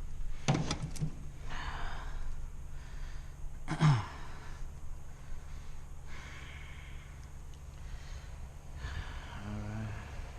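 A person breathing heavily close to the microphone, a breath every couple of seconds, over a steady low hum, with a few sharp clicks just after the start and a louder one about four seconds in.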